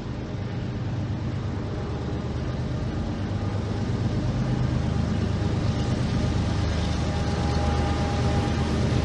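Train running, a low steady rumble with a hiss on top, slowly growing louder as it comes nearer.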